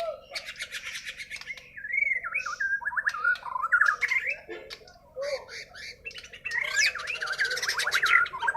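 Bornean white-crowned shama (murai batu) in full song: a rapid run of varied whistled phrases that slide up and down, mixed with harsh rasping notes, with a brief pause about five seconds in.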